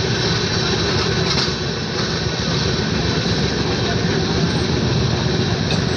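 Passenger train running, heard from inside a sleeper-class coach: a steady, loud rumble of wheels on track with no letup.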